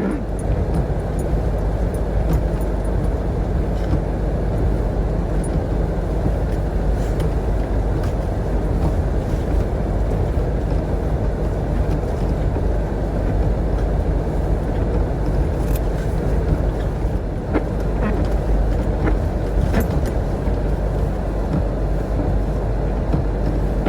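Vehicle engine and road noise heard from inside the cab while driving: a steady low rumble with a few light clicks and knocks.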